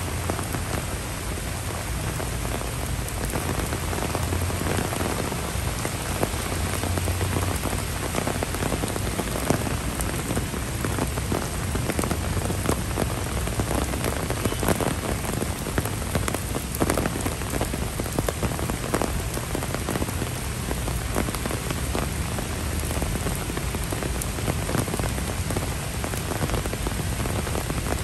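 Heavy rain falling steadily on trees, grass and wet paving, a dense hiss flecked with individual drop impacts.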